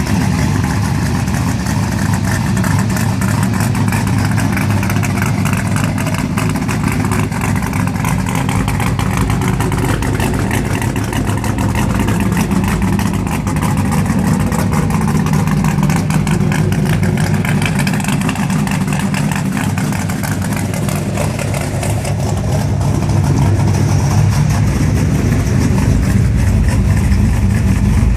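Vehicle engine running steadily through an exhaust fitted with mufflers, a little louder over the last few seconds.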